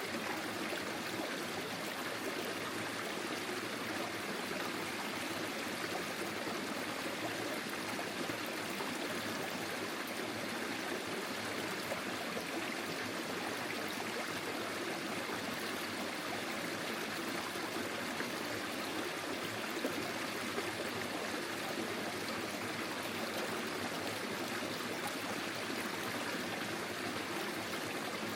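Small forest stream flowing steadily, its water running and trickling over stones in an even rush.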